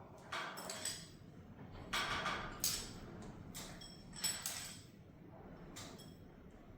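Small steel engine parts clinking and scraping against each other and on metal as they are handled, in a string of separate short clinks, some ringing briefly.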